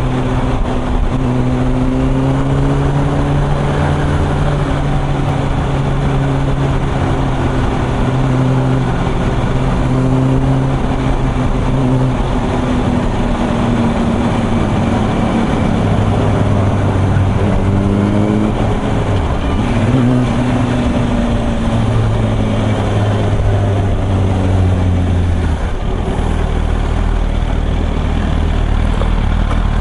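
2007 Yamaha YZF-R1's inline-four engine running at road speed, its pitch shifting up and down several times with throttle and gear changes, under a constant rush of wind noise.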